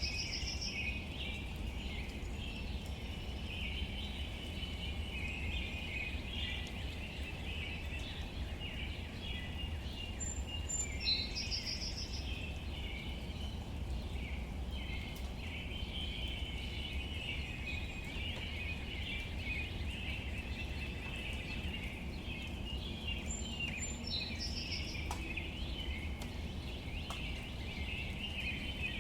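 Outdoor nature ambience: a steady low rumble under constant bird chatter. One bird's short patterned call comes twice, about a third of the way in and again near the end.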